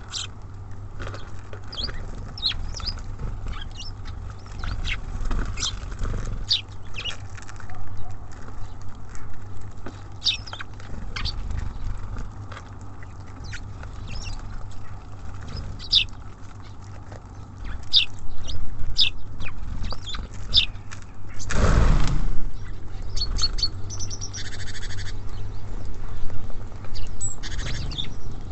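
Small songbirds at a feeder give short, high chirps scattered throughout, over a steady low rumble. About 22 seconds in there is one loud, brief rush of noise.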